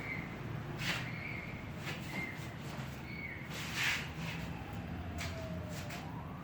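A bird repeating a short high call about once a second, over a steady low rumble, with a few sharp clicks and a noisier rustle a little past the middle. Near the end a distant siren glides down and then rises.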